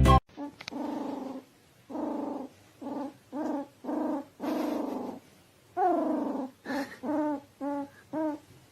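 A dog making a run of about a dozen whining, grumbling calls, each short and some sliding down in pitch.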